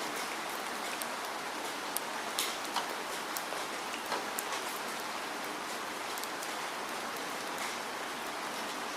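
Steady rainfall, an even hiss with many distinct drops ticking on a surface scattered through it.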